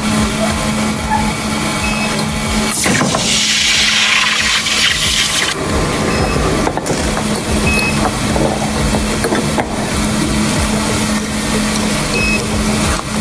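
Steady machine noise with a constant low hum. About three seconds in, a loud hiss starts and lasts roughly two and a half seconds before the steady running noise carries on.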